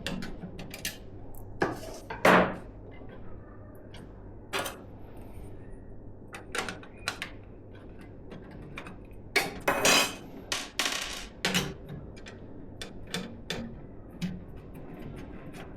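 Hands handling computer parts during a PC build: scattered small clicks and knocks of plastic and metal, with a louder scraping, rustling stretch about ten seconds in.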